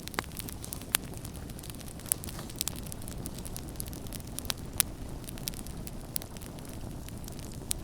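Campfire burning, with a steady low rumble of flames and frequent sharp, irregular crackles and pops from the burning wood.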